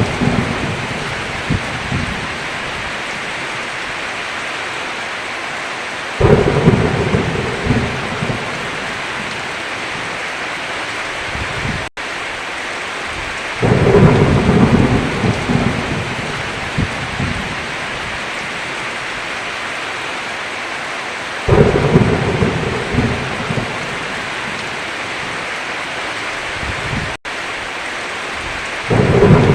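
Heavy rain falling steadily, with a rumble of thunder rolling in about every seven to eight seconds, four in all, each swelling suddenly and fading over a few seconds. The sound cuts out for an instant twice.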